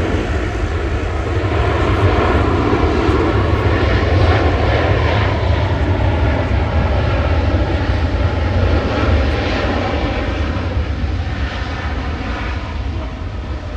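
Jet airliner's engines rumbling loud and close as it passes, the sound building over the first couple of seconds and fading near the end.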